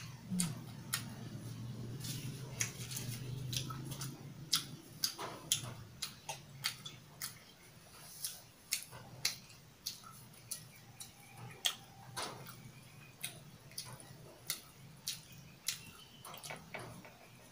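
Close-miked mouth sounds of a person chewing a mouthful of kimchi ramen noodles: irregular wet clicks and smacks, two or three a second, with a low steady hum over the first four seconds.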